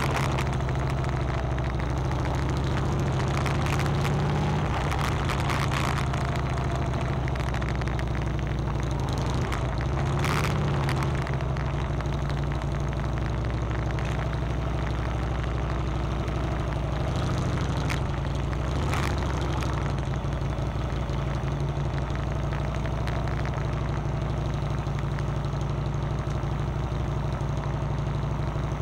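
Motorcycle engine running at steady, even revs, with a few brief knocks or rattles, the clearest about ten and nineteen seconds in.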